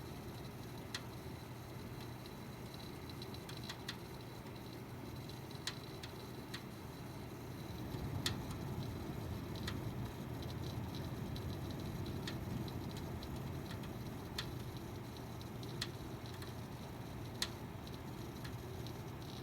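Desktop PC making sharp, irregular crackling clicks, one every second or two, over the steady low hum of the running machine.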